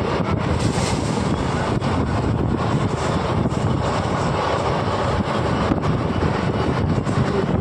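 Steady rushing noise of wind buffeting the microphone, over the even rumble of a moving road vehicle.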